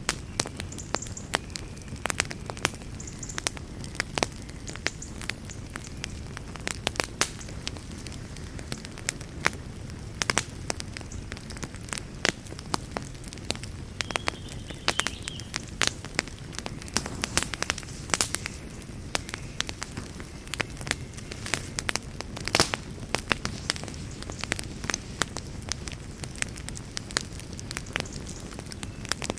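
Wood campfire burning, a steady low rumble of flames with frequent sharp, irregular crackles and pops.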